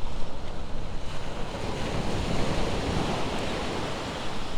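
Ocean surf washing onto the beach, with wind buffeting the microphone; the wash swells about two seconds in.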